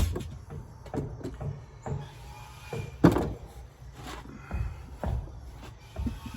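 A series of irregular knocks and clunks of hard objects, with a loud one right at the start and another about three seconds in.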